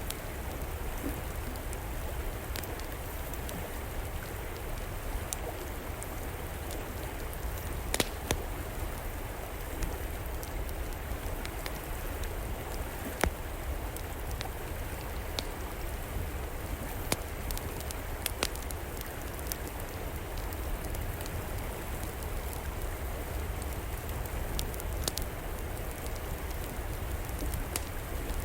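Steady rushing flow of a river, with sharp, irregular pops and crackles from a wood fire in an outdoor fireplace.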